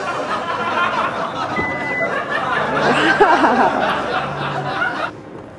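Indistinct overlapping voices and stifled laughter, with a single short high beep about a second and a half in; the chatter stops suddenly near the end.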